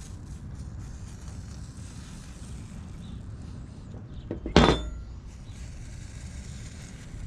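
A single sharp metallic clank with a brief ring, a little past halfway, over a steady low background hum.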